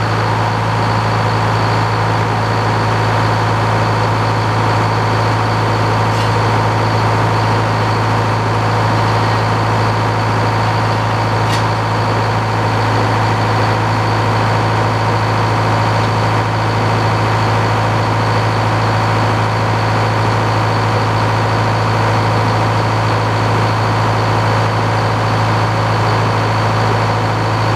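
Old two-stroke Detroit Diesel engine powering a Frick sawmill, running steadily at an even speed with no change in load.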